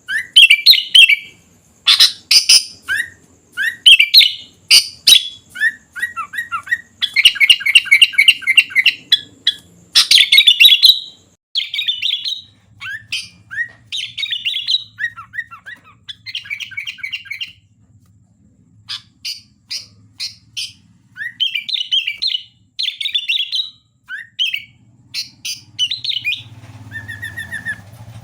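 Sooty-headed bulbul singing a quick series of short chirping phrases, with one pause of about two seconds past the middle.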